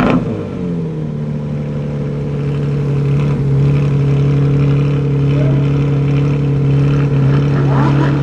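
Car engines at a supercar gathering: one engine holds a steady low drone at a constant pitch, and another car's engine rises in pitch as it passes near the end.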